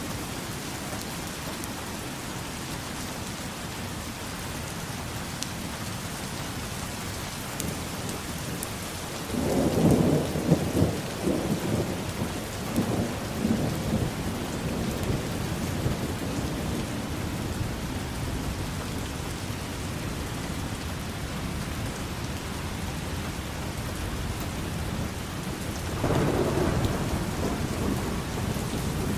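Steady rain falling, with two rolls of thunder: a loud one about a third of the way in that rumbles on and fades over several seconds, and another near the end.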